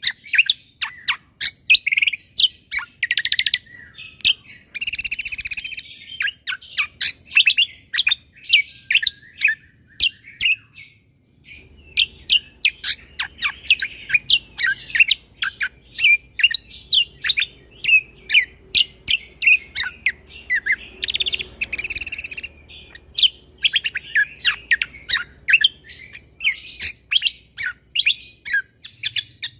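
Cucak kombo (kecial kombo) songbird singing nonstop in rapid-fire bursts: dense runs of sharp, quickly repeated chirps and trills, with a brief pause about ten seconds in.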